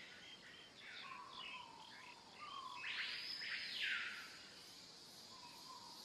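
Faint birds chirping, with many short calls and one louder, longer call about three seconds in.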